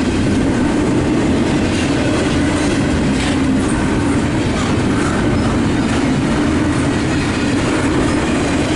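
A train rolling past close by: a steady, loud rumble and clatter of wheels on rail.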